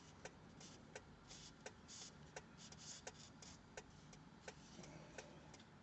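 Faint soft rustling and irregular light clicks as a cord wrap on a knife sheath is pulled loose and unravels.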